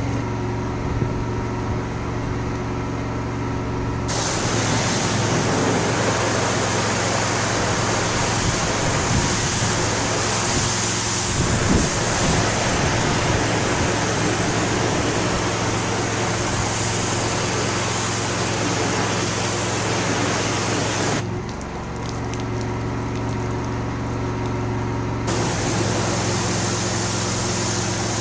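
21 lpm pressure washer running: its motor hums steadily, and about four seconds in the high-pressure jet starts spraying onto the patio slabs with a loud hiss. The spray stops for a few seconds near the end, leaving the motor alone, then starts again.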